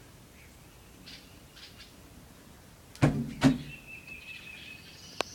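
Faint high chirps from the small porch-nesting birds that dive at people and click as they fly by. About three seconds in come two loud sharp thumps in quick succession, followed by a thin steady high call.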